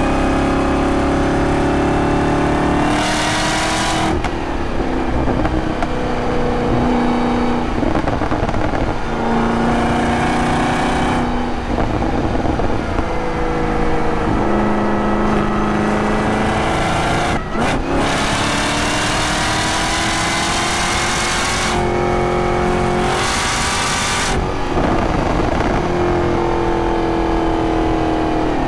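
Supercharged 6.2-litre V8 of a 2023 Camaro ZL1 with a six-speed manual, driven hard. The engine note climbs and then drops again and again through gear changes and lift-offs, with short bursts of hiss and a brief drop-out about halfway through.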